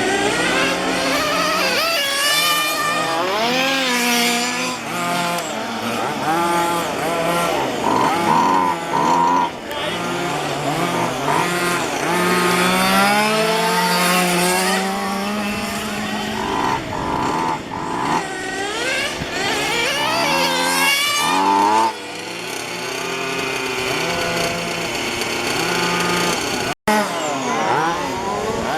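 Several 1:5-scale petrol RC cars' small two-stroke engines revving and easing off as they lap the track, their pitches rising and falling and overlapping one another. A very brief gap in the sound near the end.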